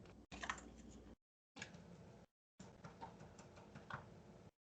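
Faint, scattered clicks and light knocks of kitchen utensils and measuring cups being handled, a few each second.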